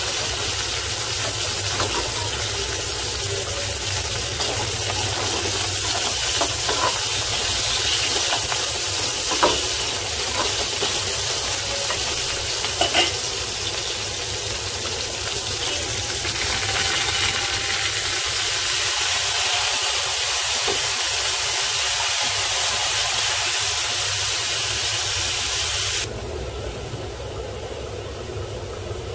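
Prawns, onion and garlic sizzling in hot oil in a metal pan: a steady frying hiss, with a few clicks of a metal slotted spatula against the pan. Near the end the sizzle drops abruptly to a quieter hiss.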